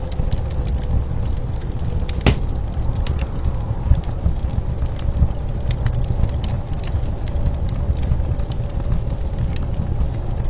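Wood fire crackling, with scattered sharp pops, over the steady low rumble of blizzard wind.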